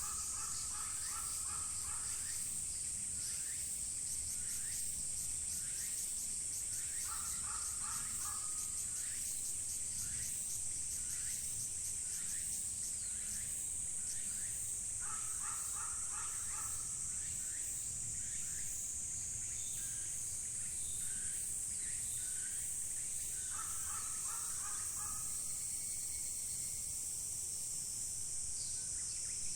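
Crow cawing in runs of a few rough calls, repeating about every eight seconds, over a steady high-pitched drone of insects.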